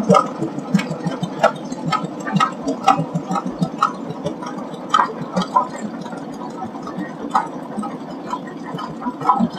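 Two-cylinder John Deere tractor, a 1948 Model D, running at parade pace, its exhaust popping unevenly about two to three times a second over a low engine rumble.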